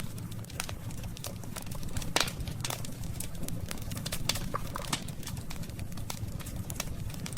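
Burning wood in a campfire crackling: irregular pops and snaps, one sharper crack about two seconds in, over a steady low rumble of the fire.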